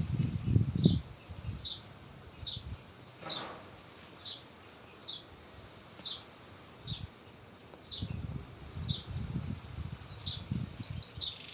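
Domestic canary giving short, high chirps repeated about every 0.7 s, with low rustling and fluttering during the first second and again from about 8 seconds in.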